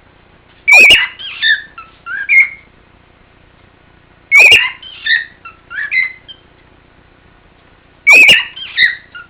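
Male cockatiel singing the same short whistled phrase three times, a few seconds apart. Each phrase opens with a loud harsh note and runs into several quick whistles that slide up and down.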